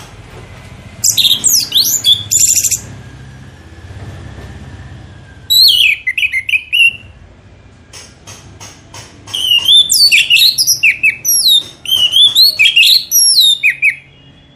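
A songbird singing in three bursts of rapid, swooping high whistles and chirps with short pauses between them; the last burst, in the second half, is the longest.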